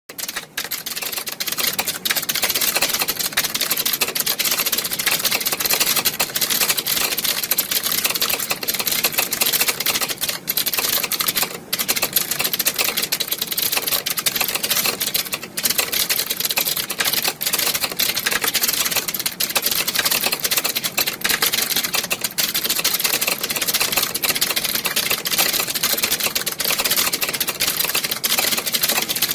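Many computer keyboards being typed on at once, a dense, steady clatter of overlapping key clicks like a typing-test exam hall.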